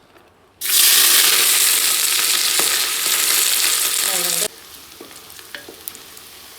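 Mutton pieces hitting hot oil in a pressure cooker and frying: a loud sizzle starts suddenly about half a second in, then drops abruptly to a quieter, steady sizzle with a few light clicks about four seconds later.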